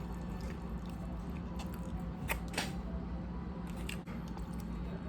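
Eating sounds: chewing with small clicks of mouth and utensils, two sharper clicks about halfway through, over a steady low room hum.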